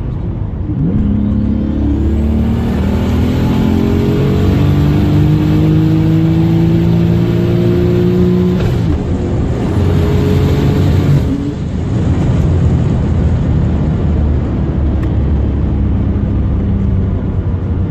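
BMW 335i with a single-turbo conversion accelerating hard: the engine pitch climbs for about eight seconds with a high turbo whine above it, drops at a gear change, climbs again for a couple of seconds, then falls back to a steadier engine sound.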